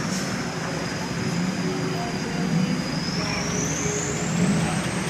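Busy street traffic noise with music playing over it, and a thin high whine that dips slightly in pitch, holds, then rises again near the end.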